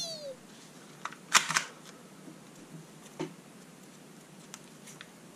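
Plastic toy gun being handled and loaded with a foam dart: a few sharp plastic clicks and clacks, the loudest about a second and a half in, over faint handling noise.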